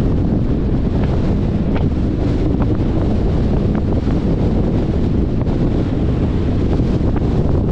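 Wind rushing over the microphone of a camera on a moving car: a steady low rumble mixed with road noise, with a few faint ticks.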